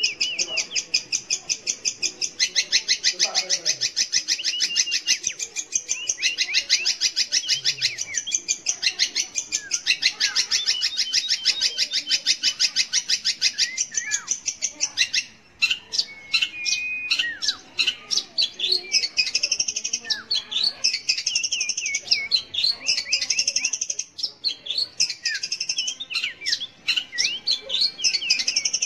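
Long-tailed shrike singing: a dense, rapid run of repeated high notes for about the first half, then a more varied string of separate whistles and sweeping notes.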